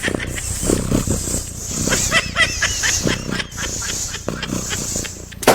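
An animal making a quick series of short, high chirping calls over a steady noisy background, with some scattered clicks.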